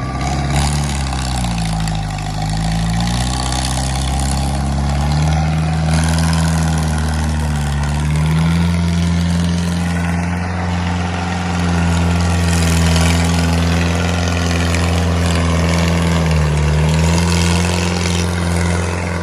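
Tractor engine running steadily. Its pitch dips and recovers twice, once about two seconds in and once near the end, as if the engine briefly takes load.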